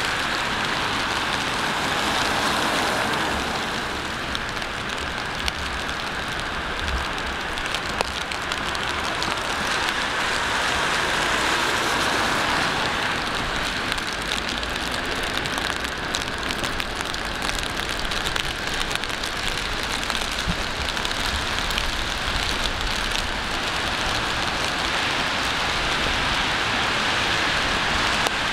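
Steady rain falling on hard city surfaces, a continuous hiss dotted with many small drop ticks, with a low rumble of city traffic underneath.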